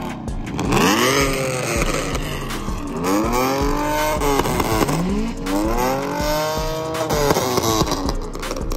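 A car engine revved hard several times, its pitch climbing and dropping back with each blip of the throttle.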